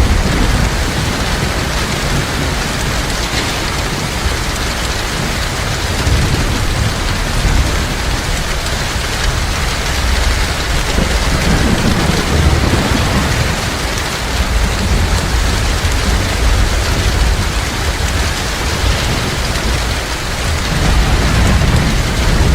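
Heavy rain falling steadily, with a low rumble of distant thunder underneath that swells and fades, strongest near the start and again near the end.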